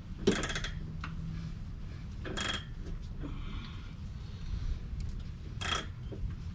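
Metal wrench clinking and scraping on a rear shock absorber's top mount nut as it is worked loose. There are three sharp clinks: about a third of a second in, near the middle, and near the end.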